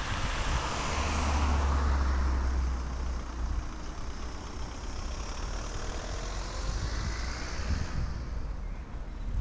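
Ferrari F430's V8 with a de-catted race exhaust running. It is deep and loudest from about one to three seconds in, then eases off, with a hiss that fades near the end.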